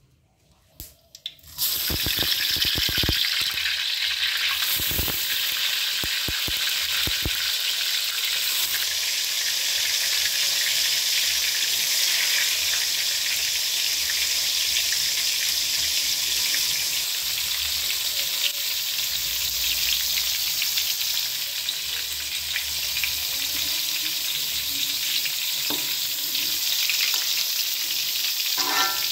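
Egg-coated tempeh slabs frying in hot oil in a wok, a steady loud sizzle that begins about a second and a half in. There are a few sharp knocks in its first seconds.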